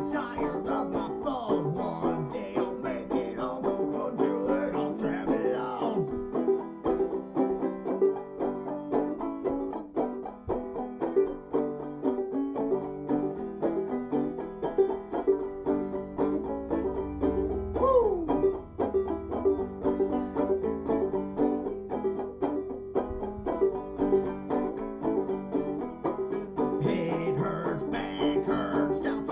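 Acoustic string-band music: a quick plucked instrumental passage with no singing.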